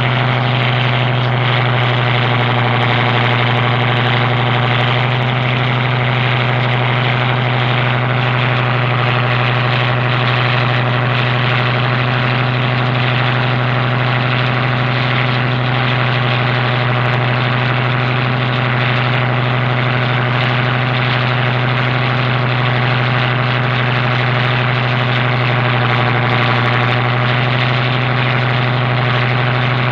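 A boat's engine running at a steady speed: a loud, unchanging drone with a strong low hum.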